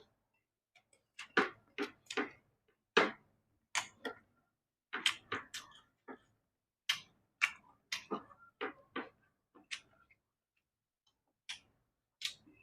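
Close-miked eating: chewing and mouth smacking heard as irregular short clicks and smacks, a couple each second, with brief pauses between bouts.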